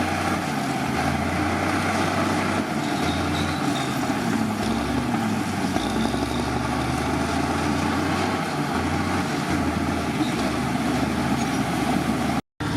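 Heavy diesel earthmoving machinery running: a steady, loud engine drone whose low hum shifts in strength every second or two as the machine works. The sound drops out for a moment near the end.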